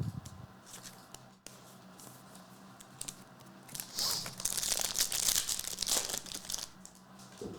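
Wrapper of an Upper Deck Blizzard Legacy Collection trading card pack being torn open and crinkled by hand, the crackling loudest over the second half, with a short low thump at the start.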